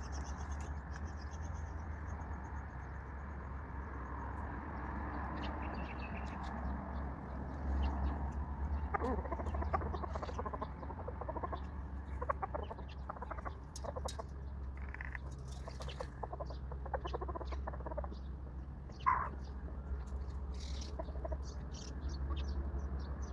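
Chickens clucking on and off over a steady low rumble, with one brief louder call near the end.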